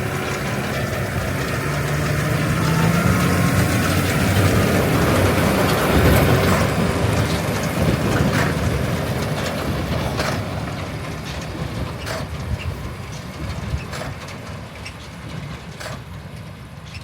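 Tractor engine revving up to drive a Hesston 2290 large square baler, then the baler running with a sharp clack about every one and a half to two seconds, fading gradually.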